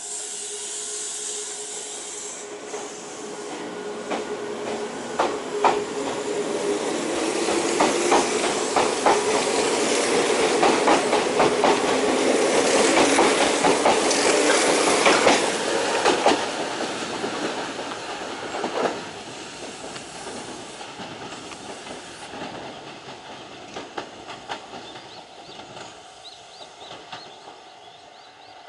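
A train passing by. It grows louder to a peak about 12 to 15 seconds in, then fades away, with a run of sharp wheel clicks over the rail joints as it goes past.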